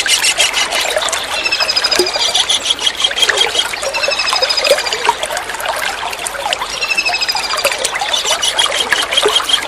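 Kingfisher calling: a rapid trilled series of high notes, repeated three times about every two and a half to three seconds, over a steady trickle of running water.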